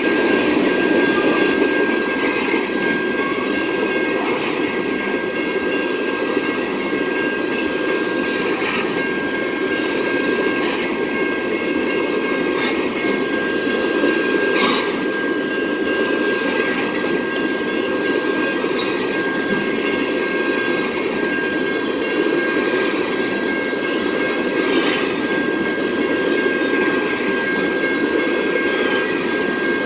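Freight train of tank cars rolling past at speed: a steady, even rumble of steel wheels on rail, with scattered clicks as the wheels cross rail joints. A thin steady high-pitched tone runs along with it.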